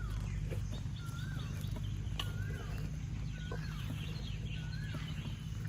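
A bird calling over and over, a short wavering whistled note about once a second, with fainter chirps from other birds, over a steady low rumble.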